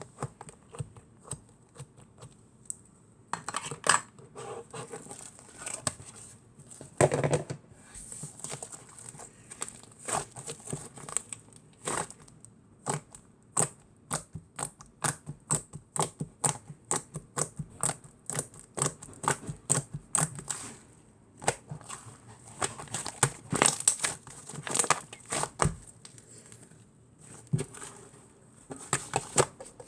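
Irregular crinkling and rustling, like something being handled in a small room, broken by many sharp clicks and a few louder bursts.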